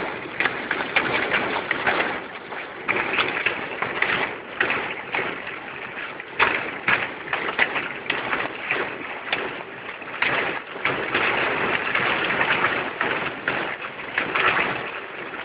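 Heavy rain beating on a moving car's roof and windshield, heard from inside the cabin, a steady wash dotted with many sharp, irregular hits.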